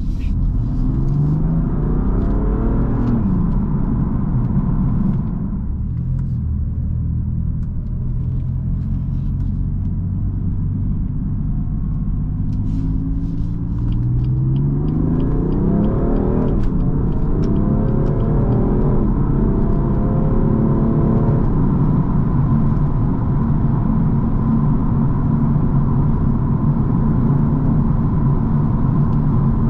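BMW M4 Competition's 3.0-litre twin-turbo inline-six accelerating: the engine note rises through the revs twice, each time cut back by a quick upshift of the seven-speed dual-clutch gearbox, about 3 seconds in and again about 16 seconds in. It then runs at a steady pitch while cruising, over a constant road rumble.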